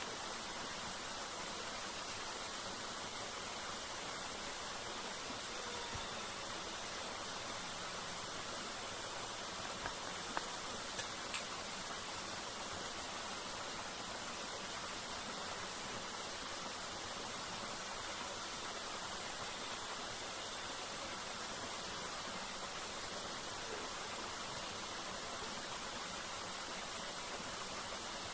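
Waterfall rushing, a steady even roar of falling water, with a few faint ticks about ten seconds in.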